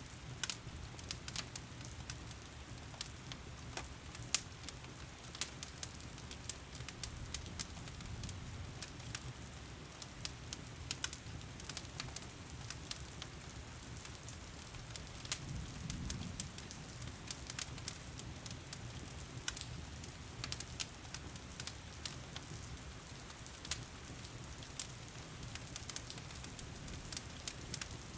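Wood fire crackling in a stone fireplace, with frequent irregular pops and snaps, over a steady wash of heavy rain.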